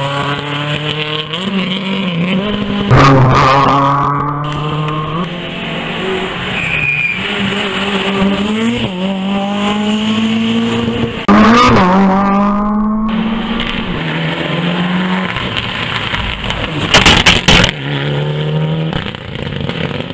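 Rally car engine under hard acceleration, its pitch repeatedly climbing and dropping back at each gear change. Sharp loud cracks come about three-quarters of the way through.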